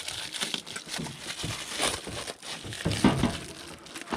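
Stiff plastic parts crinkling, creaking and clicking irregularly as a headlight assembly and surrounding plastic trim are worked into place by hand.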